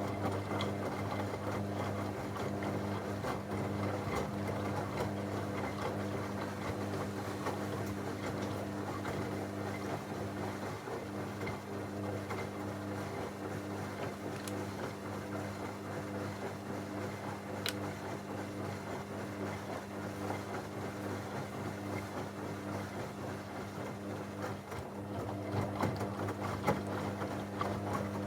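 Techwood WB 91042I washing machine running in its wash cycle, a steady motor hum with a low drone. A sharp click comes about two-thirds of the way through, and a few louder knocks near the end.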